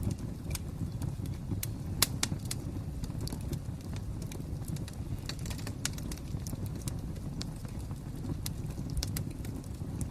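Wood fire crackling: scattered sharp snaps and pops over a steady low rumble, with one louder pop about two seconds in.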